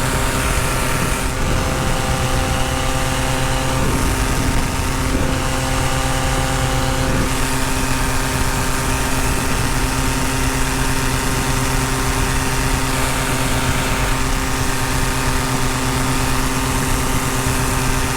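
Tandem paramotor's engine and propeller running steadily at constant power in flight, with a dense rush of air noise over the microphone.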